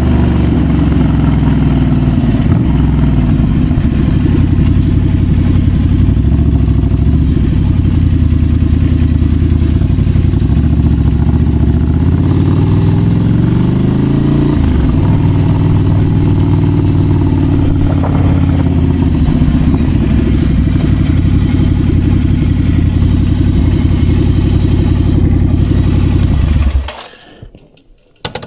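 Ducati Scrambler's L-twin engine running while ridden, its pitch rising steadily for a couple of seconds about halfway through and then dropping back abruptly. The loud engine sound cuts off suddenly near the end, leaving only faint clattering.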